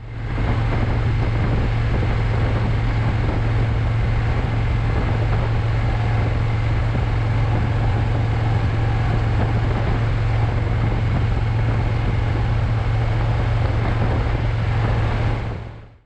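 Motorcycle riding at a steady road speed: a constant low engine drone under loud wind noise, fading in at the start and out near the end.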